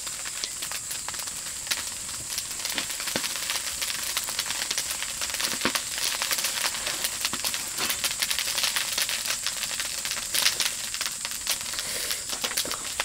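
Meat sizzling on a grill over an oak-wood fire: a steady hiss with frequent sharp crackles and pops.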